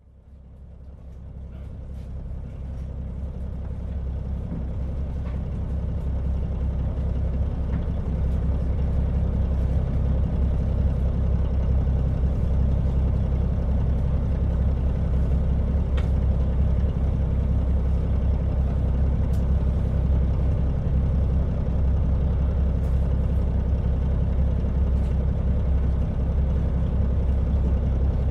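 KiHa 40 diesel railcar running, a steady low rumble of engine and wheels that swells up over the first several seconds and then holds even, with a few faint clicks.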